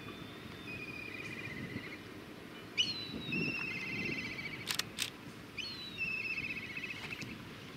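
A small bird calling three times, each phrase a sharp falling note followed by a fast trill, over a low steady rumble. Two brief sharp clicks come about halfway through.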